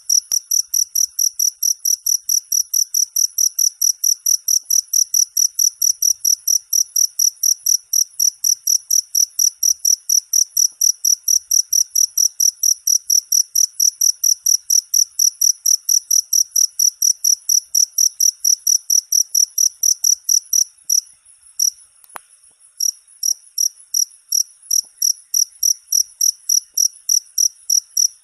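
Cricket chirping: a steady run of short, high-pitched pulses, about four a second, that falters briefly with a faint click about 21 seconds in before resuming.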